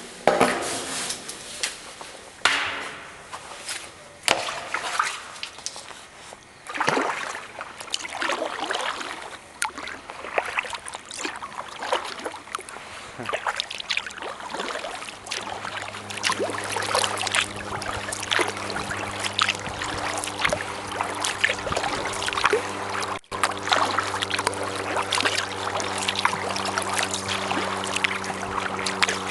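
Kayak paddle dipping and splashing, with water dripping and trickling off the blade in irregular strokes. About halfway through, a steady low hum with an engine-like pitch joins and holds under the splashing.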